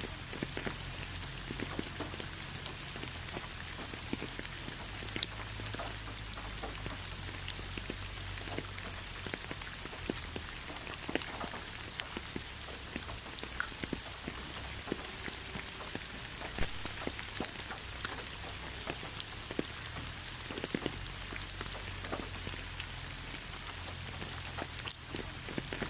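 Steady rain falling, with many separate drops ticking sharply against a surface over an even hiss of rainfall.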